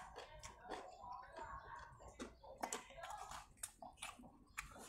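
A man chewing a mouthful of noodles and vegetables, with frequent short, sharp mouth clicks.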